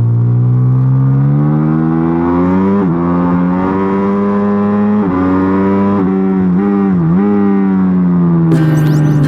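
Pit bike engine running under load, revs climbing with sharp brief dips, like a rider shifting up through the gears, then easing off near the end. Music starts shortly before the end.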